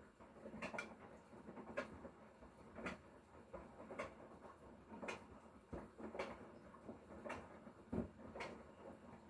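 Hotpoint Core 8 kg washing machine with an inverter motor, its drum turning through a wash cycle: a soft swish of laundry and water repeating evenly about once a second over a low hum.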